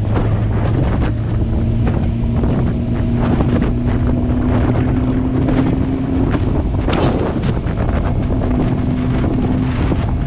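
Heavy wind buffeting on the microphone of a riding motorcycle, with the engine's steady hum underneath; its pitch climbs slightly over the first half, then the tone drops away and returns near the end. A single sharp click about seven seconds in.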